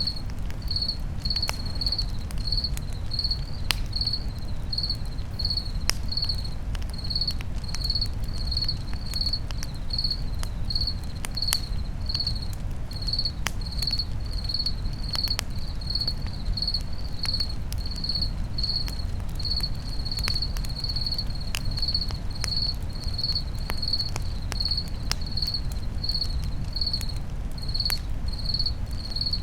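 A cricket chirping steadily, about two high chirps a second, over a crackling campfire with scattered sharp pops and a low steady rush.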